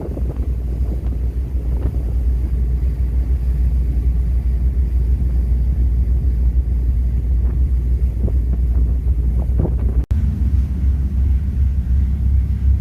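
Car ferry's engines giving a steady, deep rumble, with wind buffeting the microphone. The sound drops out for an instant about ten seconds in.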